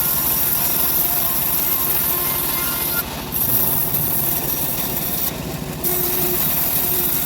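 Assembled bandsaw sawmill running and cutting through an acacia log: a steady loud whir with a fast low throb. The high hiss of the cut drops out briefly twice, about three seconds in and again about two seconds later.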